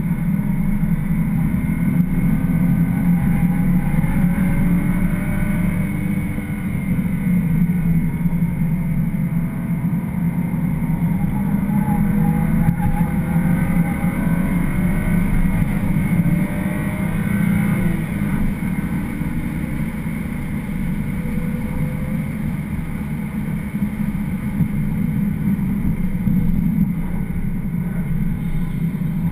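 BMW 335xi's turbocharged inline-six on track, heard from inside the cabin. The revs climb and fall repeatedly through the corners and straights, over a steady low rumble of tyres and road.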